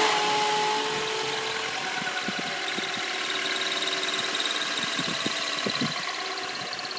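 2002 Honda Accord engine idling with a high-pitched squeak from the clutch in the engine bay. The squeak started a week after a new clutch kit was fitted, and it stops when the clutch pedal is gently pressed.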